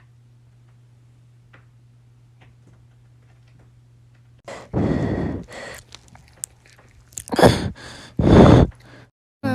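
A cat handling a phone up close to its microphone. After a few seconds of faint ticks over a steady low hum, there are three loud rubbing, rustling noises, starting about halfway through and ending just before the end.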